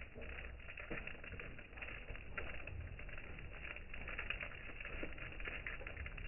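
Pigeons feeding, their beaks pecking at food in a rapid, irregular run of small taps over a steady low rumble.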